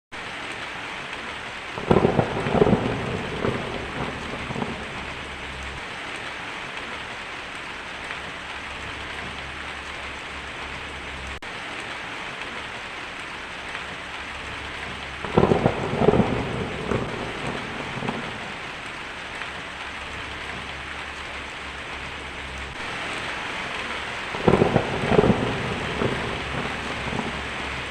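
Heavy rain drumming steadily on a tin roof, with three rolls of thunder breaking in: one about two seconds in, one midway, and one near the end.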